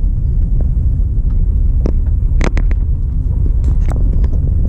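A car being driven at steady speed: a constant low rumble of road and engine noise, with small ticks and rattles here and there.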